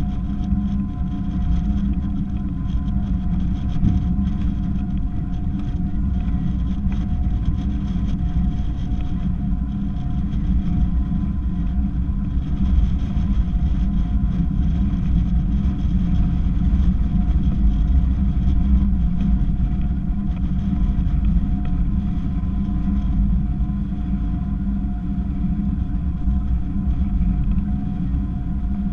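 A steady engine drone holding one pitch over a heavy low rumble, with no change in speed.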